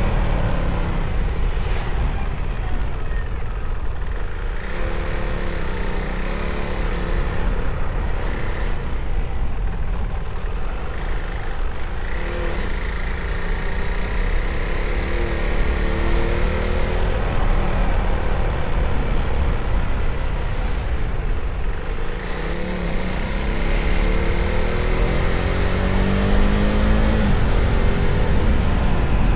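Motorcycle engine running under way, its pitch rising and falling with the throttle over a heavy low rumble; near the end it climbs steadily, then drops off.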